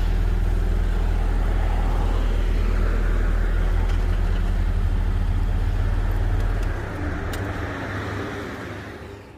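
A car on the move: steady deep road rumble and rushing noise, easing off about two-thirds of the way through and fading out near the end.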